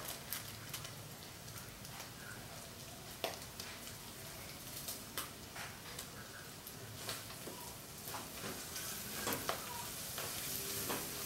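Diced calabresa sausage, onion, carrot and corn sizzling in a stainless steel pot while a wooden spoon stirs them, with scattered scrapes and knocks of the spoon against the pot.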